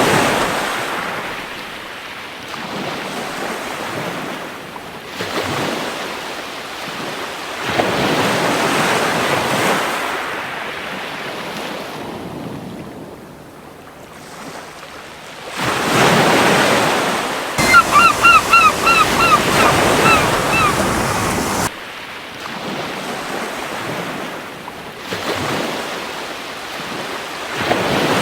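Surf washing onto a beach in swells that rise and fall every few seconds. About two-thirds of the way through, a gull gives a quick series of about eight short calls lasting roughly three seconds.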